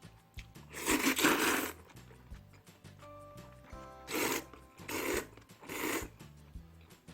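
Someone slurping kongguksu noodles from cold soybean broth: one long slurp about a second in, then three short slurps about a second apart, over soft background music.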